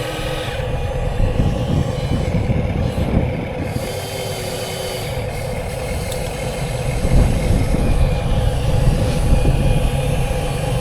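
Motors and gearing of radio-controlled scale construction machines running: a steady mechanical hum over a low rumble, with brief higher whines now and then.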